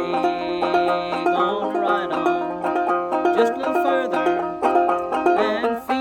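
Banjo being played, a quick run of plucked notes.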